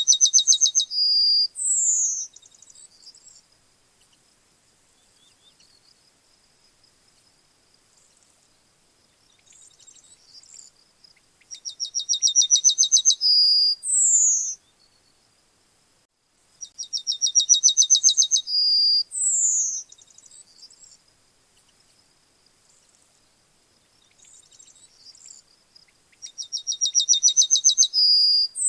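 Yellowhammer singing: four song phrases, each a rapid string of short high notes that ends in a longer held note and a falling note, with gaps of about five to ten seconds between them. Faint soft chirps can be heard in the gaps.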